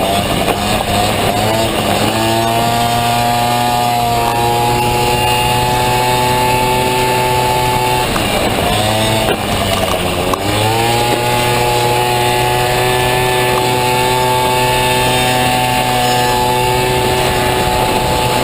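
Honda Motocompo with a swapped-in Honda Dio two-stroke scooter engine running at high revs. Twice the engine note dips as the throttle is eased and climbs back up, once at the start and once about halfway; otherwise it holds a steady high pitch.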